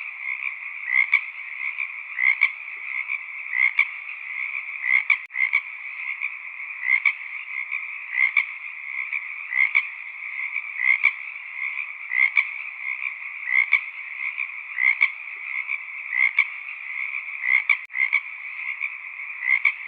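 Chorus of frogs calling: a steady dense background of calls with louder single croaks standing out about once a second.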